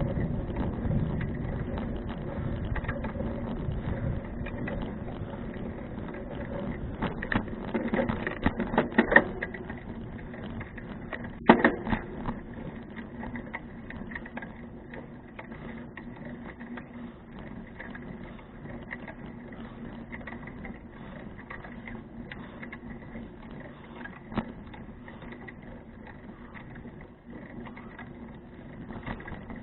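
Fuji Touring bicycle in motion: rapid mechanical ticking and drivetrain rattle, with a cluster of knocks and rattles from the bike about 7 to 12 seconds in, the loudest about 11 seconds in.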